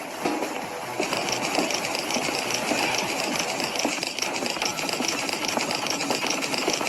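A machine running with a fast, even, rhythmic clatter that settles in about a second in.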